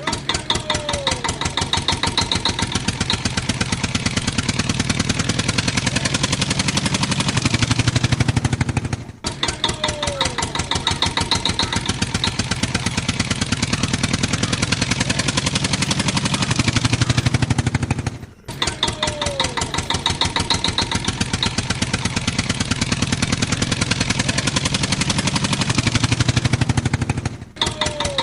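Engine running with rapid, even pulses at a steady level, played as a loop that restarts about every nine seconds, with a brief drop-out at each join.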